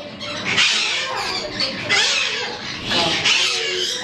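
Pet parrots calling: a few harsh, noisy calls about a second and a half apart.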